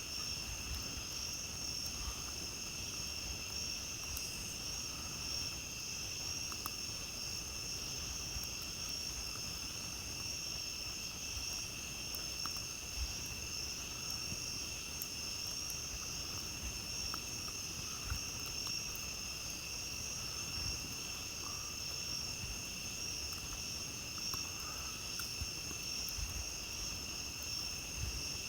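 A chorus of night insects, crickets among them, trilling steadily at two pitches, one high and one higher, with a few faint clicks scattered through it.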